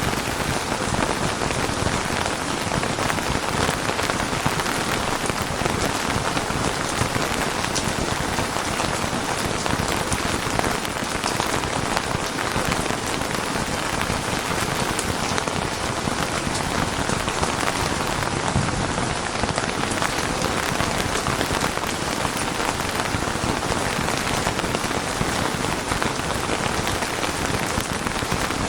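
Steady heavy rain falling and pattering on surfaces, an even dense hiss with fine drop noise that holds level throughout.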